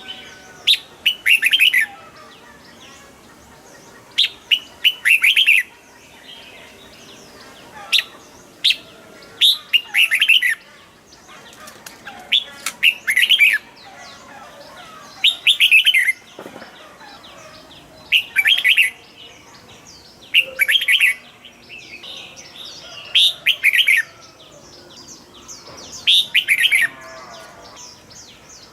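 Red-whiskered bulbul singing short, loud whistled phrases of about a second each, repeated every two to three seconds, with fainter bird chirps between them.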